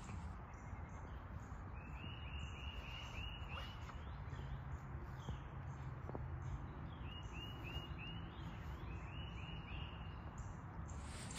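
Outdoor ambience with a steady low rumble, and a bird singing two runs of quick repeated notes at one pitch, about four a second.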